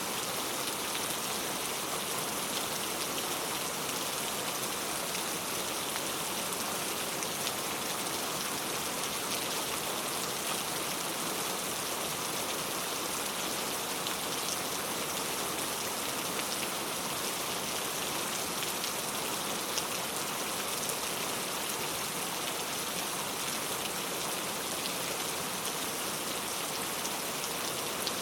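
Steady heavy rain, a dense hiss of falling drops with fine scattered patter.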